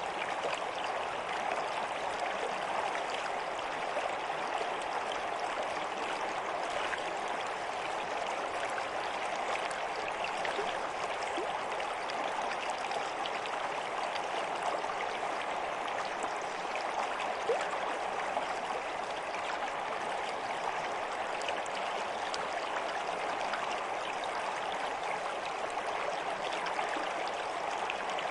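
A stream flowing over stones, a steady babbling rush of water with small splashes and trickles.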